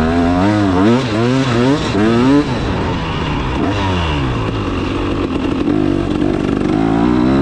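KTM 300 two-stroke dirt bike engine under throttle while riding, its pitch rising and falling quickly several times in the first couple of seconds, then running steadier and lower before climbing again near the end.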